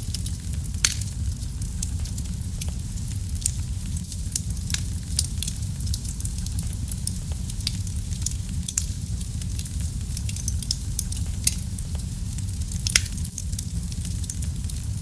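Wood fire burning in a fireplace: a steady low rumble of flames with frequent small crackles and pops, and a few louder snaps.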